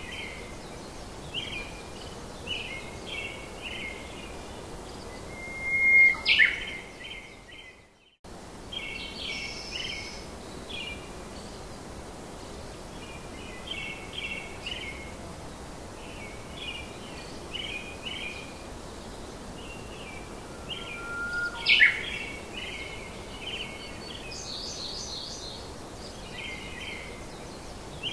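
Birdsong over a steady outdoor hiss: small birds chirping in short, quickly repeated phrases, with a loud rising whistle about six seconds in and again later. The sound fades out and starts again about eight seconds in.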